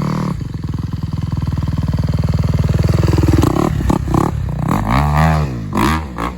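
Dirt bike engine revving hard, building over about three seconds, then blipped up and down a few times near the end.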